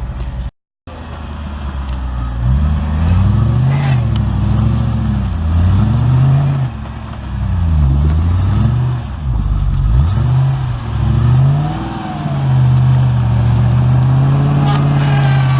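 Off-road 4x4's engine revving up and down repeatedly, with a held high rev near the end. The sound drops out completely for a moment just under a second in.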